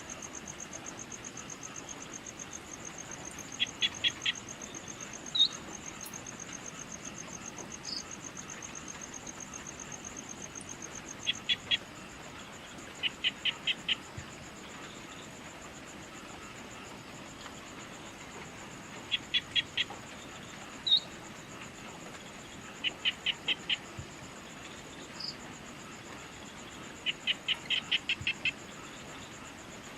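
Evening outdoor ambience: a continuous high, rapidly pulsing insect trill, with an animal calling over it in short runs of three to six quick notes every few seconds, and now and then a single short chirp.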